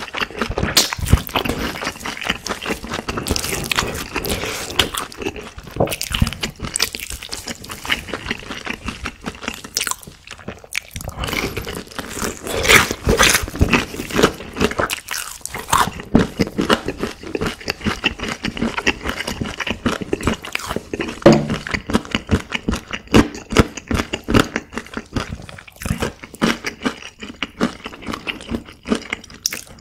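Close-miked chewing and biting of chicken: dense, irregular wet mouth clicks and crunches.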